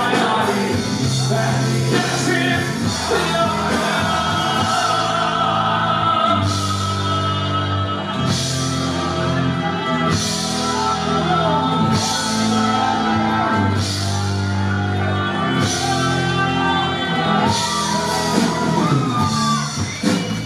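Anatolian rock band playing live in an instrumental passage. Sustained bass notes sit under a gliding lead melody, with a cymbal crash about every two seconds.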